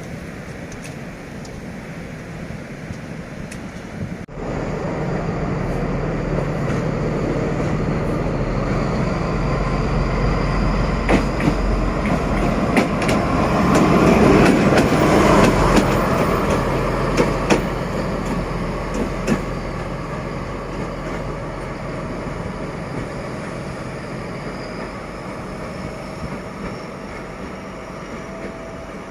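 D11H-class diesel-hydraulic locomotives running light past, their engine drone growing louder to a peak about halfway and then fading away. Their wheels click over the rail joints as they go by.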